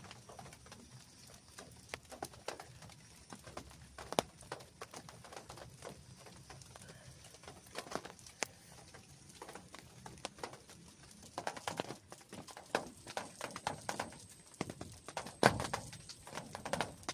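Scattered drips tapping irregularly on tent or tarp fabric over a faint steady hiss, sparse at first and coming thicker for the last several seconds.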